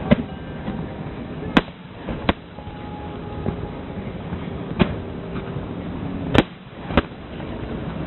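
Aerial fireworks shells bursting, six sharp bangs at irregular intervals over a steady background noise.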